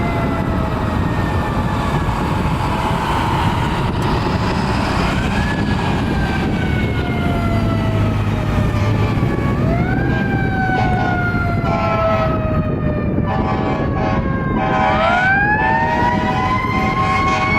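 Fire engine siren winding up in quick rising sweeps and then slowly falling in pitch, over and over, over a steady low rumble of the truck.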